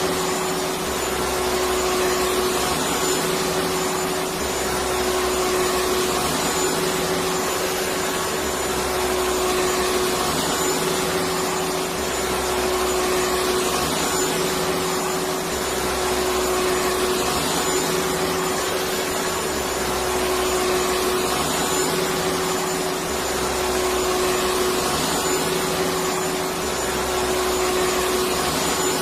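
Electric vacuum cleaner running steadily: a dense even whoosh with a constant motor hum, the low end swelling and easing slightly every few seconds.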